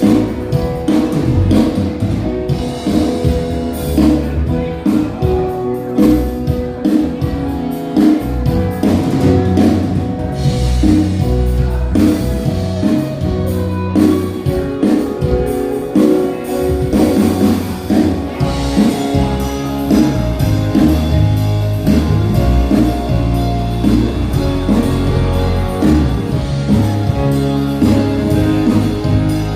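Church worship band rehearsing live: guitar and drum kit playing a song with a steady beat.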